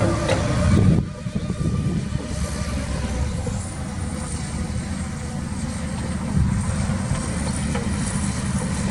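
Diesel engine of heavy earthmoving machinery running with a steady low rumble. It is louder for the first second, then settles.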